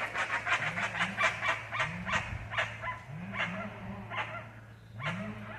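Jacus (guans) calling: a rapid run of sharp, barking yelps that thins out after about three seconds, over pairs of low, rising-and-falling notes repeated every second or so.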